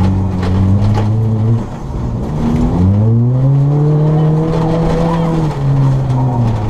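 Ford Fiesta ST rally car's engine under hard driving on a rallycross course: it holds steady, dips, climbs in pitch as the driver accelerates about three seconds in, holds, and drops again near the end.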